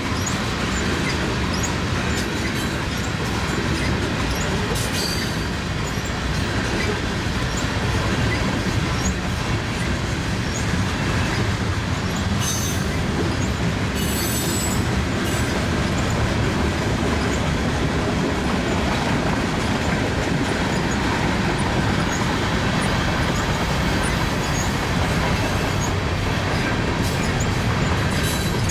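CN freight train of tank cars rolling past, a steady rumble of steel wheels on the rails with a few brief wheel squeals.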